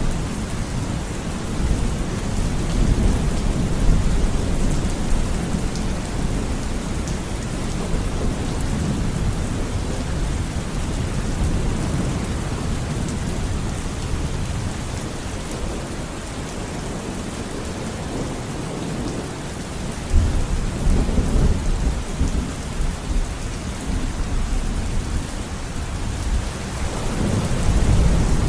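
Steady heavy rain falling, with low rolling thunder: a rumble near the start, a sudden sharper roll about twenty seconds in, and another rumble building near the end.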